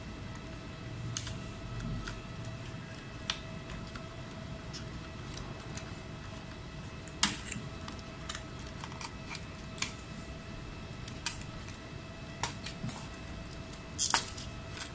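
Irregular sharp clicks and taps of small tools and parts being handled at an electronics repair bench, about a dozen in all, the loudest about halfway through and a quick cluster near the end, over a steady faint electrical whine.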